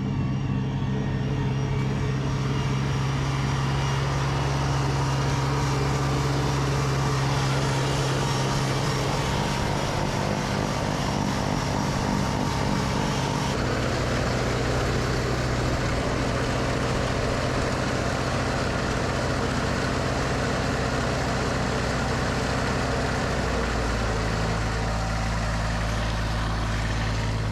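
An engine running steadily under load. Its note shifts about halfway through and again shortly before the end.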